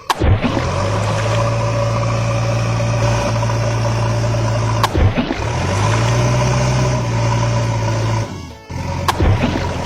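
Steady low vehicle engine drone with a faint higher hum over it, cut off sharply and restarted with a click twice.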